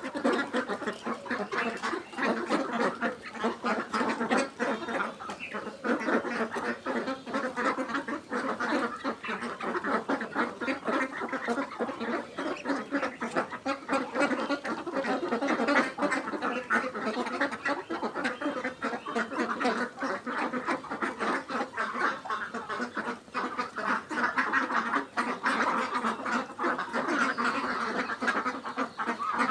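A flock of Khaki Campbell ducks quacking, many calls overlapping in a constant chatter.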